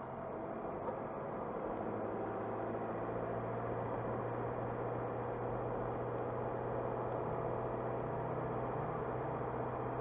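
Car driving along a road: the engine runs at a steady low hum under a constant wash of tyre and road noise, growing slightly louder about two seconds in.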